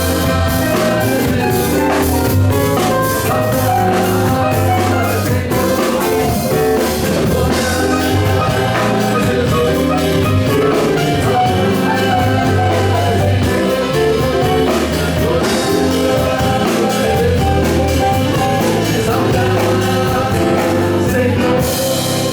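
Live gospel worship band playing: keyboard, electric bass and drum kit carrying on the song after the last sung lines, with a wash of hissy noise in the last second.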